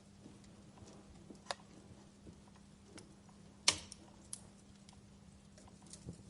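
Wood fire in a fireplace crackling: scattered faint crackles, a sharper pop about a second and a half in, and the loudest snap a little past the middle, over a faint steady low hum.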